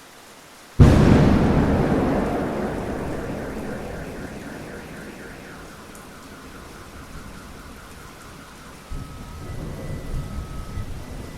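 Thunder over steady rain: a sharp thunderclap about a second in that rolls and fades over several seconds, then a second low rumble of thunder builds near the end.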